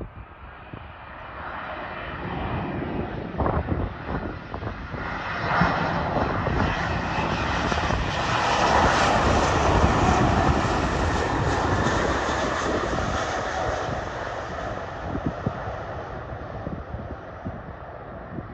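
Airliner passing the runway: its engine noise builds, peaks about halfway through and then fades away.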